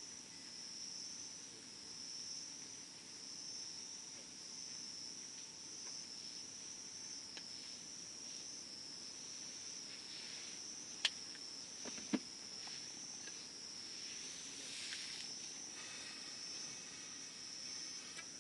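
Steady, high-pitched chirring of insects, with a campfire crackling faintly and giving two sharp pops, about eleven and twelve seconds in.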